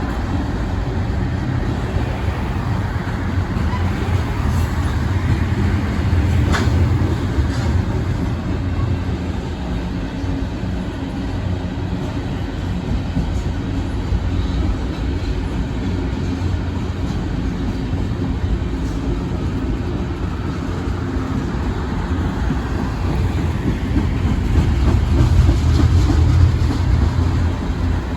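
Iowa Interstate Railroad freight train rolling past, a steady low rumble of wheels on rails with occasional sharp clicks. It grows louder near the end.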